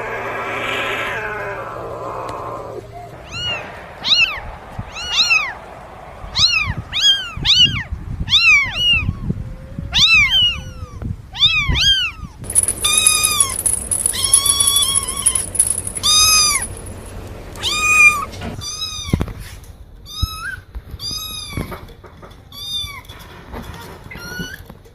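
Cat meowing over and over: short, high meows that rise and fall in pitch, about one or two a second, starting about three seconds in.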